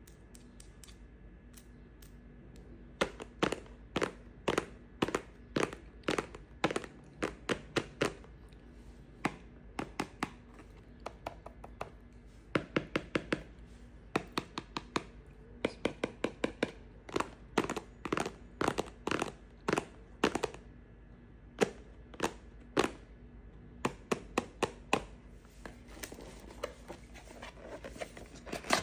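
A knife cutting into bar soap: a long run of sharp, short cuts, several a second with brief pauses, starting about three seconds in.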